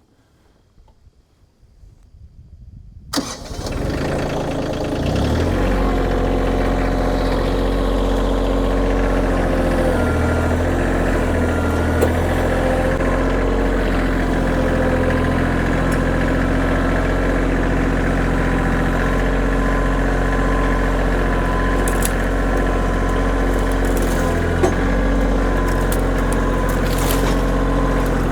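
Kioti diesel tractor engine starting about three seconds in, then running steadily.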